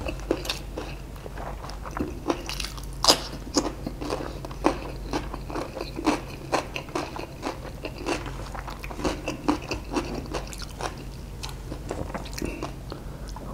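Close-miked eating of fried chicken and rice: irregular crunches and wet chewing clicks, the sharpest about three seconds in, with fingers scraping rice across the plate.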